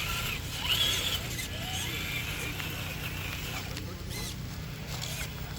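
Radio-controlled Traxxas TRX-4 rock crawler driving, its electric motor and gears whining, over a steady low rumble.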